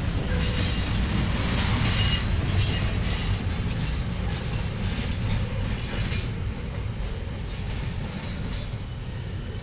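Union Pacific intermodal freight train's double-stack container well cars rolling past with a steady low rumble, with high-pitched wheel squeal over the first few seconds. The sound fades gradually as the end of the train passes and moves away.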